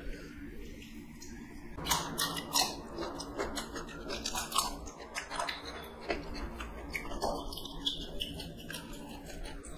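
Chewing and crunching as two people bite into raw cucumber and eat rice with their fingers. A run of short, crisp clicks starts about two seconds in.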